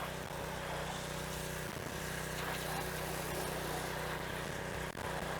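Pressure washer engine running steadily under the hiss of a wide fan-tip spray soaking the house in soft-wash chemical.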